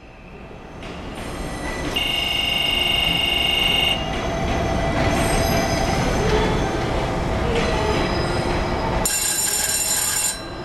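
Train running through the station on steel rails, its rumble building over the first two seconds and then holding steady. A high-pitched wheel or brake squeal lasts about two seconds early on, and a shorter, shriller squeal comes near the end.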